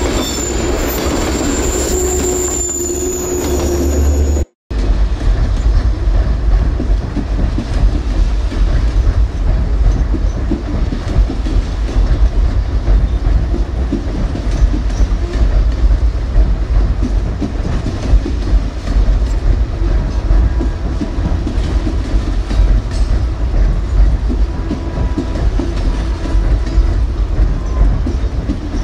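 Coal train rolling past: a steady rumble and clatter of railcar wheels on the rails, with a faint wheel squeal in places. The sound cuts out for an instant about four and a half seconds in, then carries on.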